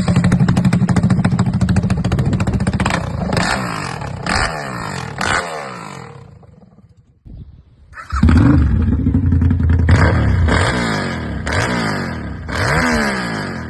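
Straight-piped motorcycle exhaust, loud, as a bike accelerates hard and shifts up through several gears, then fades. A second hard run through the gears follows about eight seconds in.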